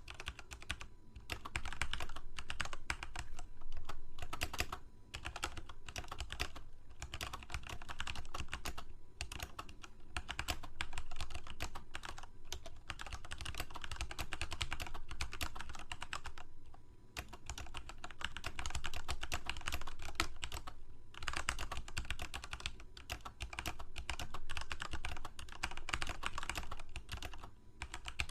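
Continuous fast typing on a computer keyboard: a dense stream of key clicks, broken by brief pauses every few seconds.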